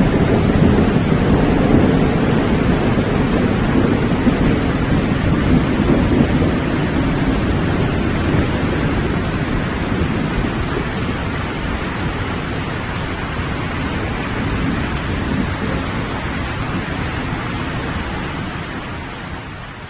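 Steady rain with a low rolling thunder rumble that slowly dies away, the whole sound fading down at the very end.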